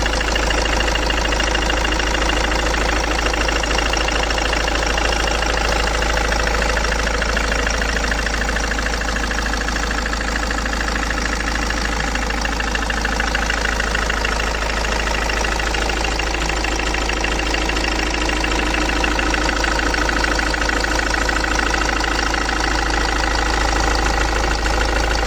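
Ford Mondeo Mk5's 2.0-litre 180 hp T8CC diesel engine running steadily at an even speed with a rapid, regular knock in its running: an extraneous knock whose cause the owner does not know.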